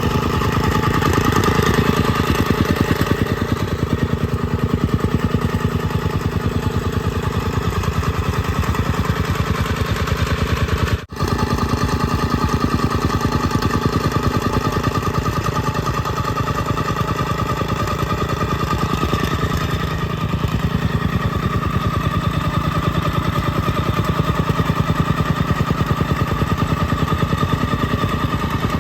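Small engine of a compactor running steadily with a rapid, even pulsing beat. The sound drops out for an instant about eleven seconds in.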